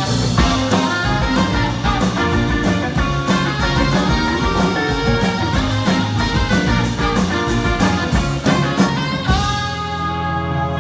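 Live band music with drums and pitched instruments playing together. About nine seconds in the drumming stops and the band holds a long sustained chord.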